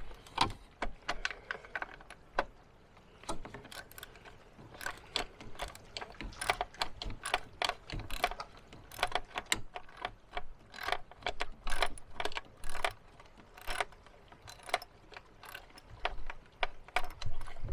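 Irregular clicks and clatter of hand tools and parts as the recoil pull-starter is unbolted and lifted out of a Honda EU2200i inverter generator.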